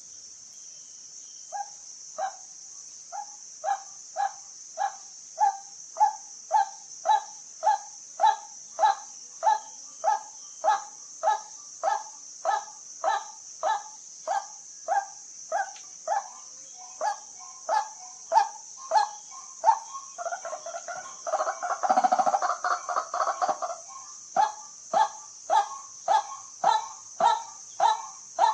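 White-breasted waterhen calling: a long series of short, evenly repeated 'kwak' notes, a little under two a second. About three-quarters of the way through comes a denser, louder burst of croaking calls. A steady high hiss runs underneath.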